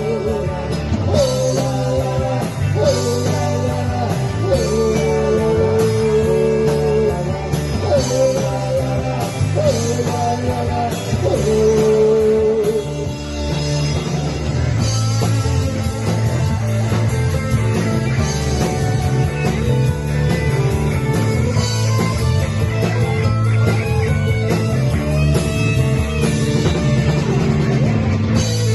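Rock band playing live, an instrumental passage with guitar over bass and drums.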